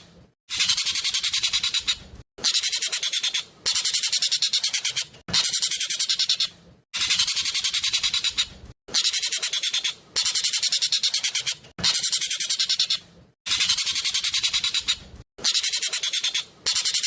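Loud song of a jovin (Asian glossy starling): a very fast, tightly packed, buzzy chatter delivered in phrases of about a second and a half. The phrases repeat one after another with short breaks between them.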